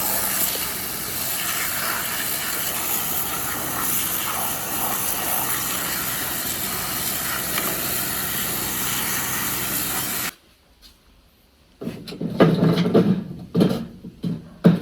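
A loud, steady hiss, like air or spray blasting, that cuts off suddenly about ten seconds in. After a short near-quiet gap, a few irregular loud knocks and clatters follow near the end.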